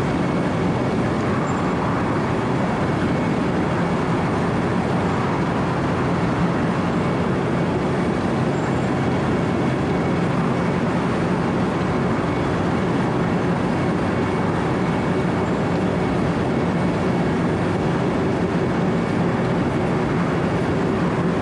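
Wirtgen W 120 CFi four-foot cold milling machine running under load, its diesel engine and cutting drum grinding steadily through the freeway pavement.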